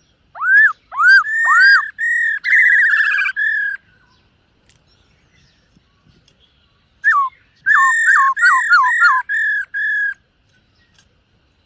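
Black-throated laughingthrush singing two loud whistled phrases. The first, in the opening few seconds, is upward-sweeping notes running into a steadier warble. The second, about seven seconds in, is a quick run of downward-slurred notes ending in a few level ones.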